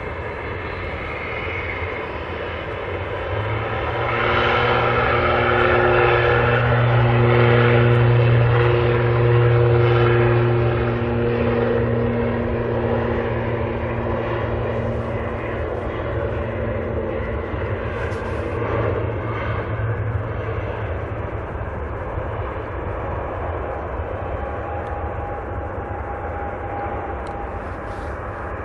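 Turboprop airliner's engines and propellers passing: a low propeller drone with steady tones above it that swells about four seconds in, is loudest around eight to ten seconds, then slowly fades.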